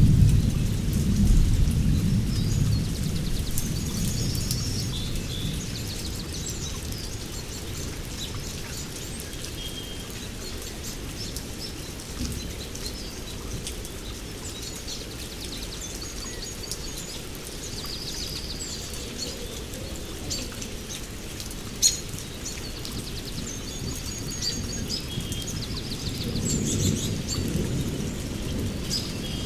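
Steady rainforest rain with thunder rumbling, loudest at the start and fading over the first few seconds, then swelling again near the end. Birds chirp and call through the rain, and there is a single sharp click about three quarters of the way through.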